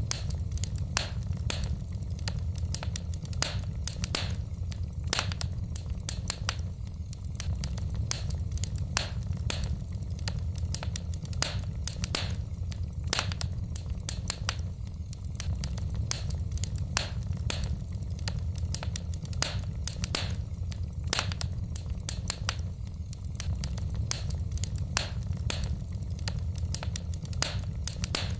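Wood fire burning in a fireplace, crackling: many irregular sharp snaps and pops of burning logs over a steady low rumble.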